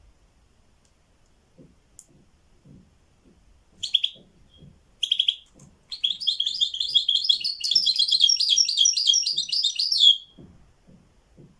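A songbird singing: two short chirps about four and five seconds in, then a fast, continuous warbling song for about four seconds. Faint low taps sound in between.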